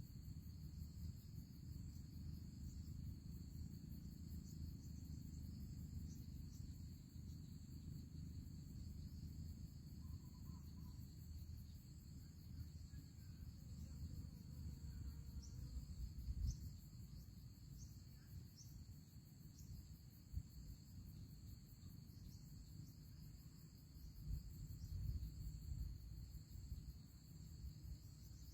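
Faint, steady high-pitched insect chirring that goes on without a break, over a low rumble.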